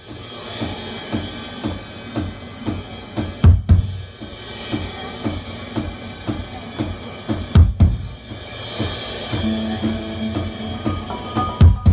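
Live rock band's drum kit playing a steady beat, with hi-hat ticks and kick and snare hits and a heavier accent about every four seconds. Held pitched instrument notes come in about nine seconds in.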